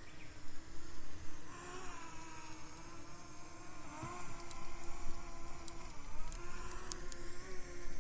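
Wood campfire crackling, with scattered sharp pops, over a faint steady hum whose pitch wavers and glides.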